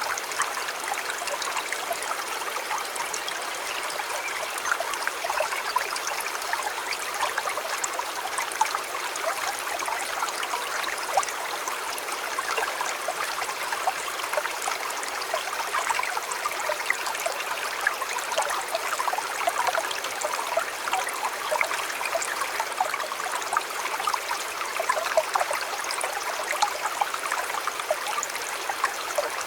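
A shallow river flowing steadily, with small splashes and burbles over a continuous rush of water.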